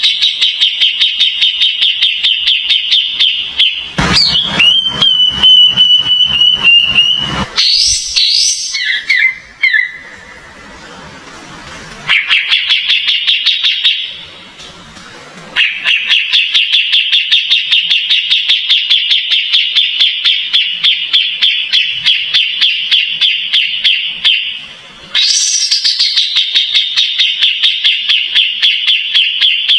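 Kapas tembak bird singing: long runs of rapid, repeated high chirps at several notes a second, broken by a few seconds of a different, buzzier call about four seconds in and two short quieter pauses.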